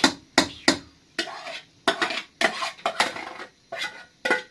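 Metal cooking utensil knocking and scraping against a pot: three sharp knocks, then a run of short scraping or stirring strokes.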